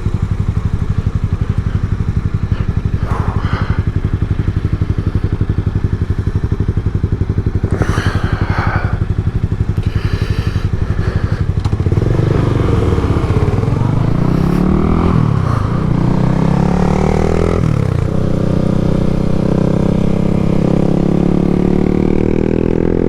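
Yamaha MT-07's parallel-twin engine running steadily, then from about halfway accelerating through the gears: the pitch climbs, drops at two gear changes, and climbs again.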